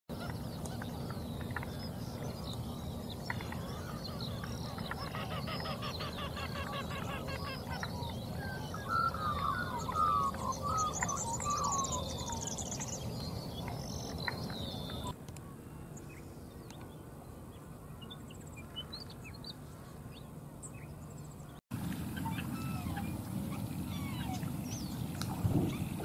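Outdoor ambience with several bird calls over a steady low background noise: a rapid trill at about five to eight seconds, then a run of chirping phrases and high squeaks around nine to thirteen seconds. The background changes abruptly at about fifteen seconds and again after a brief dropout near twenty-two seconds.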